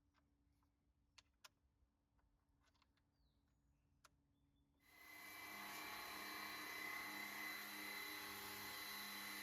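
Near silence with a few faint clicks, then about five seconds in a DEWALT 20V cordless pressure washer starts up suddenly: its electric motor and pump whine steadily over the hiss of the water spray.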